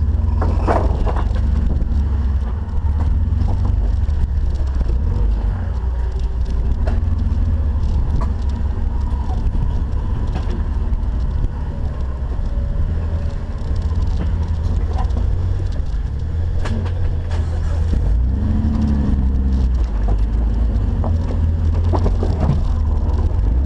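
Off-road 4x4's engine running low and steady, with scattered short knocks and clicks.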